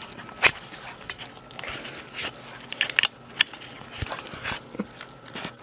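A dog's mouth smacking and chewing on sticky peanut butter: irregular wet clicks and smacks.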